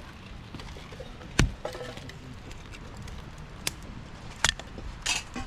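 Firewood being chopped or split: about four sharp, irregular knocks, the loudest about a second and a half in.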